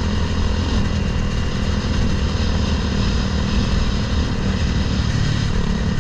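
Honda CBR300R single-cylinder engine in a Grom mini bike running steadily under way at cruising speed, with wind and road noise.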